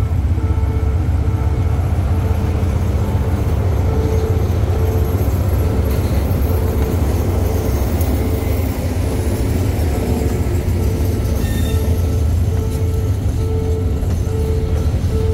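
State Railway of Thailand diesel locomotive passing close by with a deep, steady rumble, followed by container wagons rolling past. A level-crossing warning signal sounds a repeating tone about once a second throughout.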